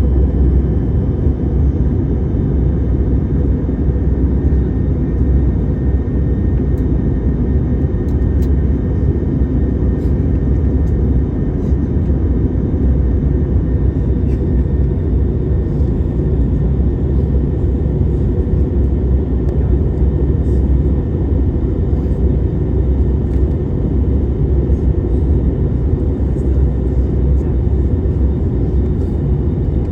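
Steady low rumble of a jet airliner in flight on its approach, with no rise or fall in level.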